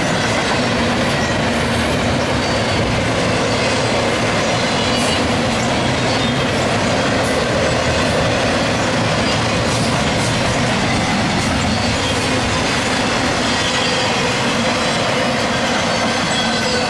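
Double-stack intermodal well cars rolling past at speed: a steady, loud rumble and rattle of steel wheels on rail, with faint high-pitched tones over it.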